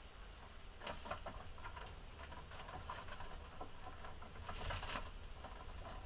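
Pet budgerigars moving about: scattered small clicks and taps, with a louder brief rustle about four and a half seconds in.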